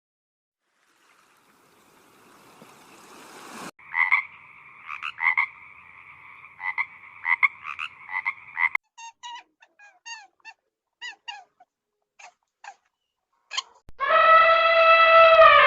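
A sequence of animal calls. A steady two-pitched pulsing call gives way to a run of short chirps, and about fourteen seconds in a loud, long pitched call begins and falls off at the end.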